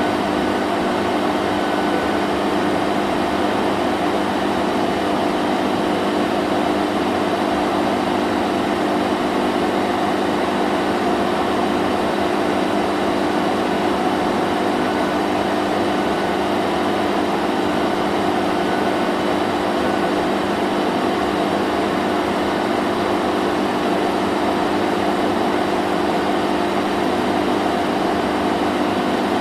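Vacuum cleaner running steadily: a constant motor hum at an unchanging pitch over the even rush of air.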